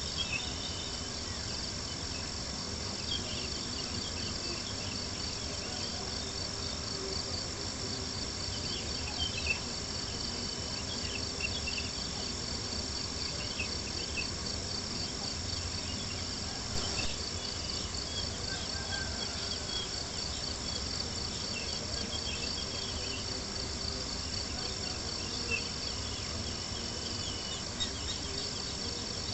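Crickets chirping in a steady, pulsing high trill, with a campfire crackling and giving occasional sharper pops.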